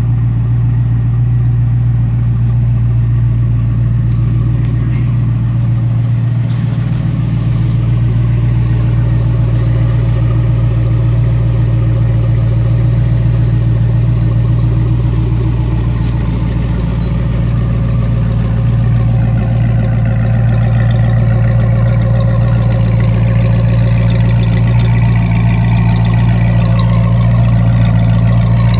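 Factory Five GTM's engine idling steadily from a cold start, a little louder from about two-thirds of the way in.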